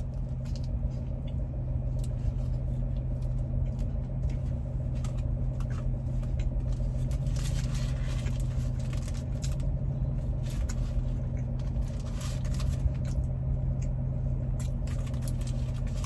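A person chewing a mouthful of grilled chicken sandwich, with scattered soft clicks from the mouth, over a steady low hum.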